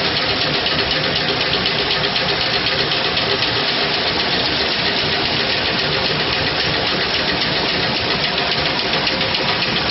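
Homemade water-wheel generator rig running steadily: a turbo pump drives water against a paddle wheel that turns a belt-driven generator, giving a loud, even mechanical running noise.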